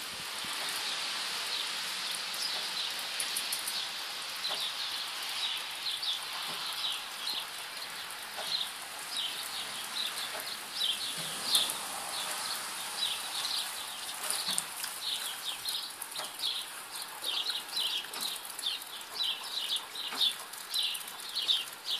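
Small birds chirping in quick short calls, more busily in the second half, over a steady outdoor hiss.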